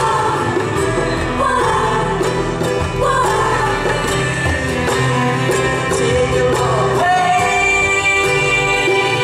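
Live band music with a voice singing a smooth, gliding melody over steady sustained chords.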